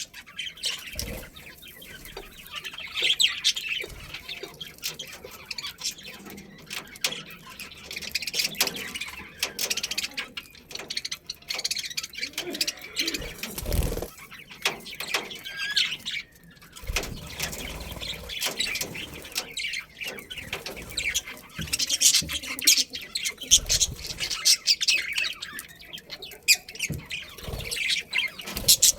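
A group of budgerigars chirping and chattering continuously in quick, overlapping calls, with a few low thumps.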